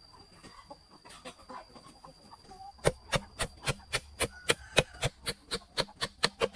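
Chickens clucking faintly, then a run of sharp, evenly spaced knocks, about four a second, starting about three seconds in; the knocks are the loudest sound.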